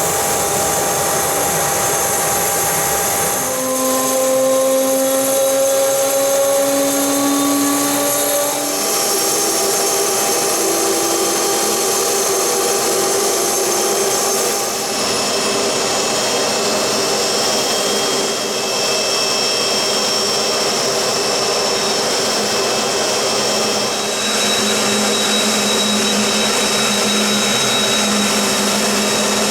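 Business jet's turbofan engines running with a steady rush and several whining tones; the whine rises slowly in pitch a few seconds in and shifts again later on.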